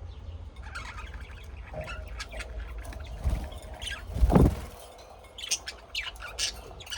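Small birds chirping, many short high calls in quick succession, over a steady low rumble, with a loud low thump about four seconds in.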